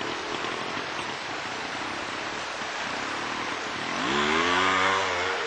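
Trials motorcycle engine revving up under load, its pitch rising for a little over a second near the end, over a steady hiss.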